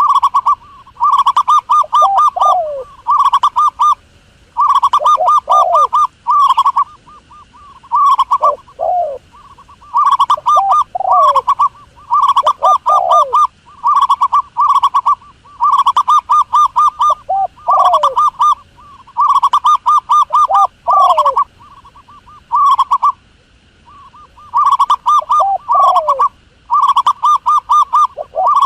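A dove calling over and over: phrases of rapid short cooing notes, each ending in a couple of falling notes, repeating about every two seconds.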